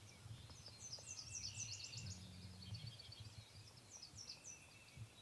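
Small songbirds singing faintly, quick high chirping phrases in two bouts, over a faint low rumble.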